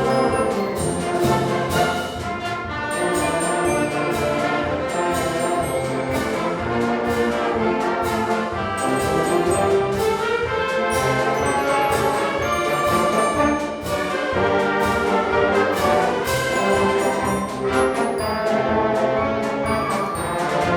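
School wind orchestra playing a march live: brass and woodwinds over a steady beat of drum strokes.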